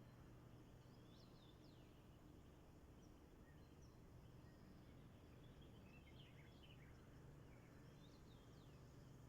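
Faint bird calls: short chirps and quick downward-sweeping notes in three brief clusters, over a faint low steady hum.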